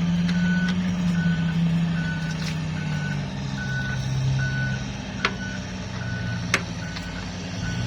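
Reversing alarm of a heavy mining vehicle beeping steadily, about one beep every 0.8 seconds, over the low hum of its diesel engine; two sharp clicks come in the second half.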